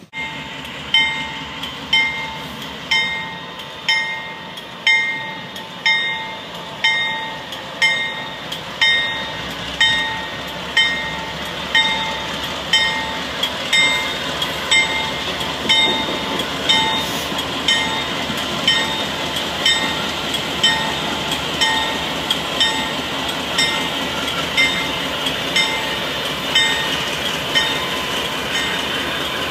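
A railroad bell ringing about once a second, each stroke dying away, over the steady rumble and rail noise of a passing train that grows louder about halfway through.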